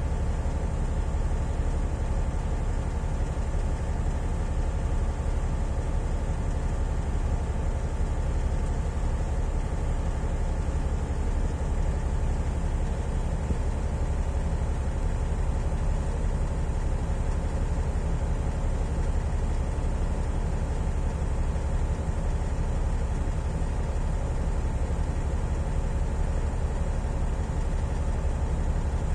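Large Caterpillar mining excavator's diesel engine running at a steady speed, a low, even drone with no sudden knocks or changes.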